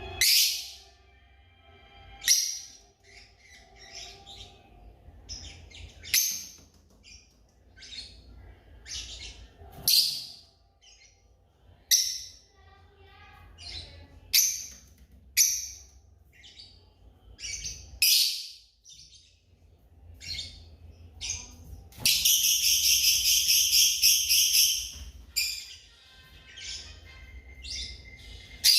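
Lovebirds calling with sharp, high-pitched chirps every second or two. About 22 seconds in, a loud, rapid chattering trill runs for about three seconds.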